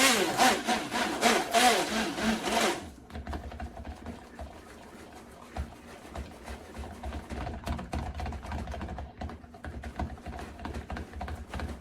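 Handheld immersion blender running in a small batch of conditioner emulsion. It is louder for the first three seconds or so, then settles to a lower, steady hum.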